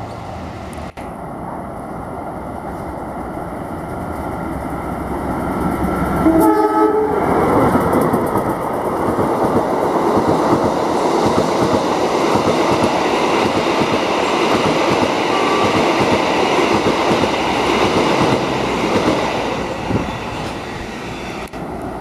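Mutiara Timur passenger train, pulled by a diesel locomotive, approaching and growing louder. The horn gives one short blast about six seconds in. The carriages then pass close by with loud, steady noise of wheels on rails, which eases a little near the end.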